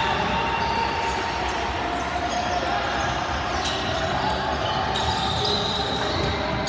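A basketball bouncing on a gym floor amid the steady din of a busy gym, with voices in the background.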